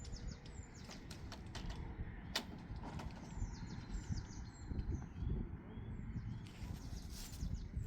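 A songbird singing short phrases of quick falling chirps, repeated every few seconds, over a low rumbling background, with a few sharp taps.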